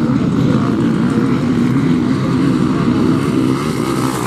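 Motocross motorcycle engines running at a race, several at once, their pitch rising and falling as the riders rev and shift.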